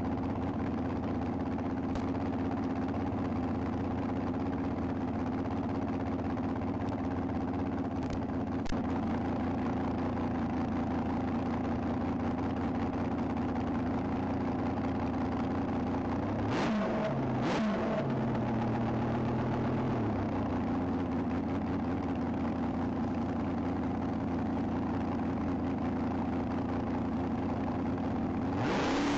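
Nostalgia front-engine dragster's engine idling steadily, with two quick throttle blips a little past halfway.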